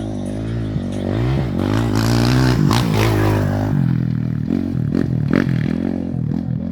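Off-road race vehicle engine revving hard as it passes close, its pitch climbing and wavering, then dropping sharply a little past the middle, followed by a series of short sharp knocks.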